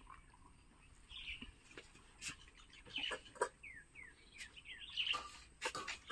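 Birds chirping: a quick run of short, falling chirps in the middle, with several sharp clicks scattered around them.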